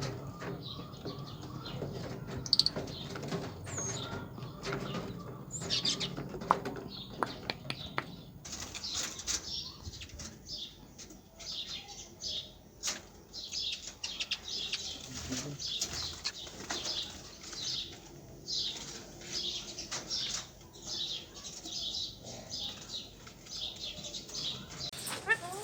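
Cage birds in an aviary chirping and fluttering their wings; short high chirps come thick and fast from about a third of the way in.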